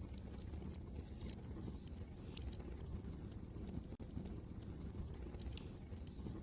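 Wood fire crackling with frequent sharp, irregular pops over a steady low rumble of wind outside. The sound drops out for an instant about four seconds in.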